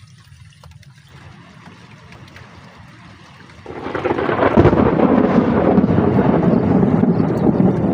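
Light rain, then heavy rain comes down suddenly a little under halfway through, loud and dense, with drops pattering close to the microphone.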